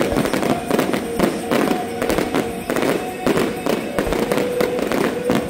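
Fireworks display going off in rapid succession: a dense run of bangs and crackles following one another closely.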